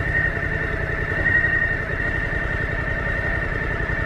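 Motorcycle engine idling, with a fast, even low pulsing and a steady high-pitched whine over it.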